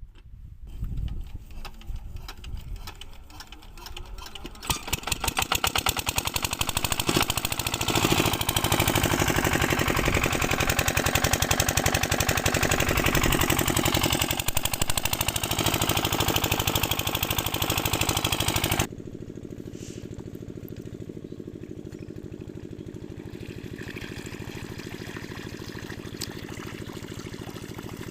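Single-cylinder 8 HP diesel engine driving an irrigation water pump. It comes up over the first few seconds, then runs loud with a rapid, even firing beat. About 19 seconds in the sound drops suddenly to a quieter steady run.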